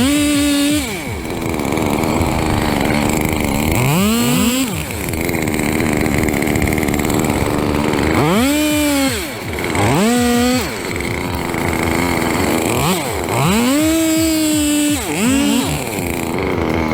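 Chainsaw revving up and down about six times. Each burst rises quickly to a high, steady pitch, holds for up to a second or so, then drops back toward idle.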